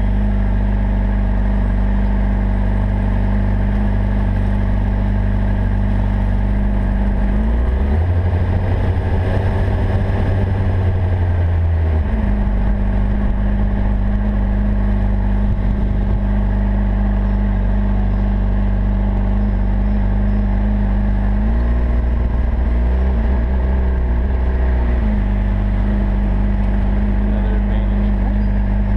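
Honda CBR600RR sport bike's inline-four engine running steadily at low road speed. The engine note changes and swells twice, once about a third of the way in and again about three quarters through, before settling back.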